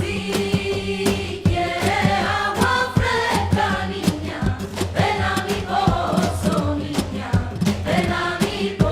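Christmas carol sung by a choir of voices over a steady beat of percussion and bass: background music.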